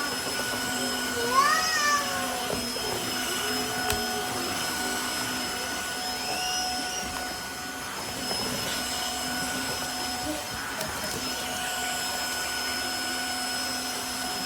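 Tineco iFLOOR 3 cordless wet-dry floor cleaner running, its motor giving a steady whine as it scrubs and picks up the floor. A brief high-pitched call rises and falls about a second and a half in, with a fainter one later.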